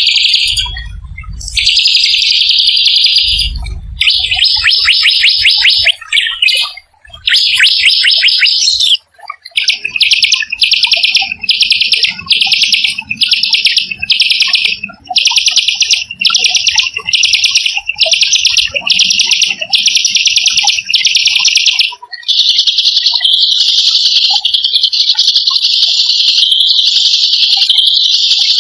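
A small songbird singing fast, harsh rolling trills. First come a few separate bursts, then short trills repeated about twice a second, and after that a near-unbroken trill.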